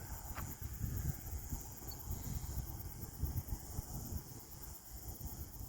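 Outdoor storm-night ambience: a steady chorus of insects trilling high over a low, uneven rumble.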